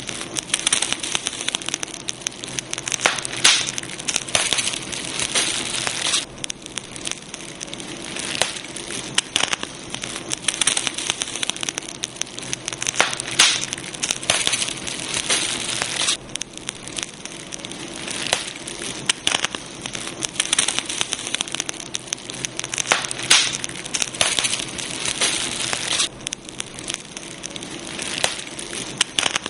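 Campfire burning, with a dense, continuous run of sharp crackles and snaps over a steady hiss.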